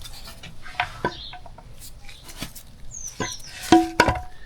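Metal engine parts being handled and set down on a bench: a series of separate clicks and knocks, the loudest two near the end with a brief metallic ring.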